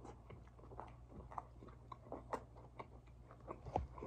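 A person chewing a mouthful of chicken gyro with the mouth closed: faint, irregular wet clicks and smacks, a few louder ones around the middle and near the end, over a low steady hum.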